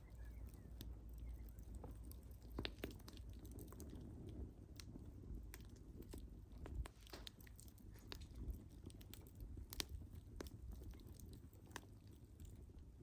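Wood fire crackling: irregular sharp snaps and pops, a few louder than the rest, over a soft low rumble of burning.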